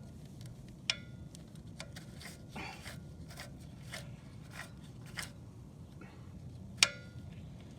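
Light metallic clicks and clinks of a manual locking hub and its bolts being fitted by hand onto a Dana 30 front axle hub. Two sharper clicks with a short ring come about a second in and near the end.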